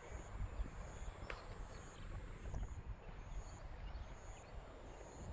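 Wind rumbling on the microphone over faint outdoor background noise, with a faint click about a second in.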